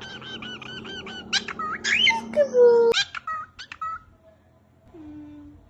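Cockatiel chirping and whistling in quick runs of short high notes, with swooping whistles and a couple of lower falling notes.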